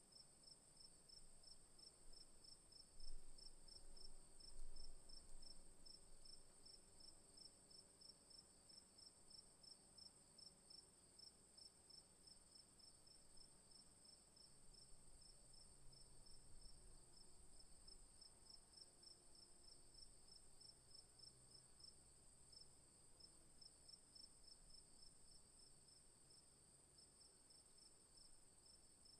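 Night insects in the bush, crickets among them: one keeps up a steady high trill while another chirps in an even pulse a few times a second. Faint low rumbles rise briefly about three and five seconds in.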